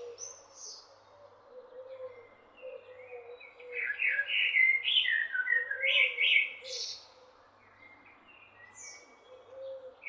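Small birds chirping and singing in quick, repeated calls, busiest and loudest from about four to seven seconds in.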